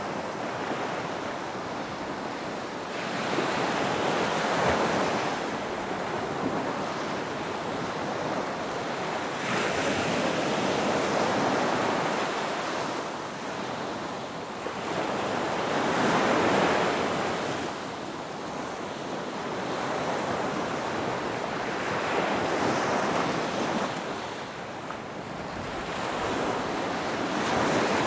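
Ocean waves breaking on a beach: surf that swells and fades in repeated surges, about one every six seconds.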